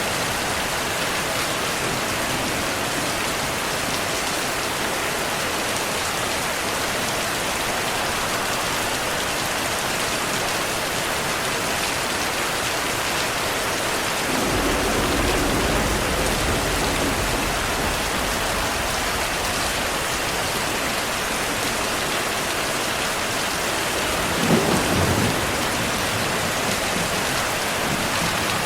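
Steady heavy rain falling, with thunder: a low rumble rolls in about halfway through, and a short, sharper thunder crack comes near the end.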